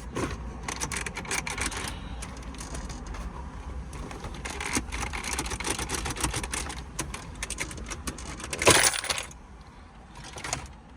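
Plastic dashboard trim being pulled off by hand: rapid clicking and rattling of plastic, with one loud sharp snap late on.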